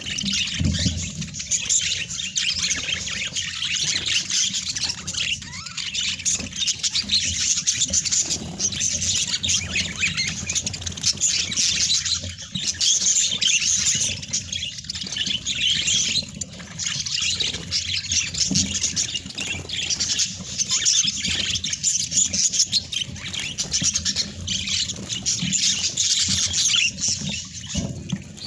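Pet budgerigars chattering and warbling in a dense, continuous stream of high chirps and squawks, broken only by a few short pauses.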